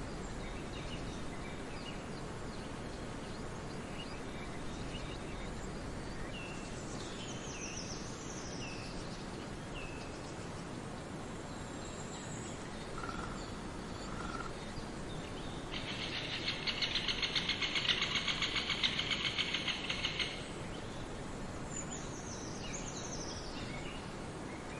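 Forest ambience: a steady background hiss with scattered short bird chirps and descending whistles. Two brief whistled notes come about halfway through, then a loud, rapid, buzzy trill lasts about four seconds.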